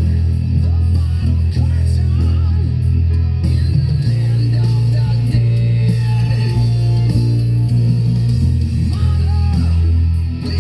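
Rock music led by an electric bass holding long, loud low notes that change every second or two, with singing over it.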